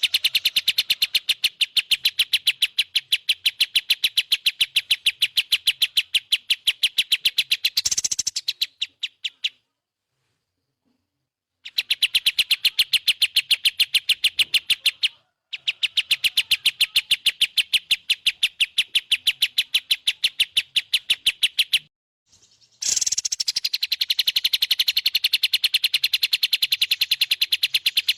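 A recorded songbird's rapid trill: a fast, even run of high chipping notes repeated several times a second. It stops short about nine seconds in, falls silent for a couple of seconds, then resumes, with two more brief breaks later.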